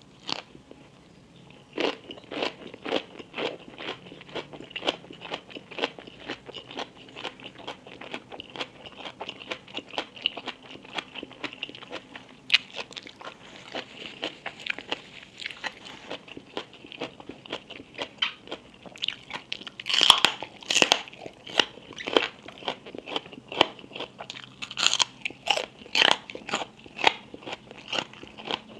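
Close-miked chewing of crisp food, wet crunching at about two to three chews a second, with louder crunchy bites about two-thirds of the way through.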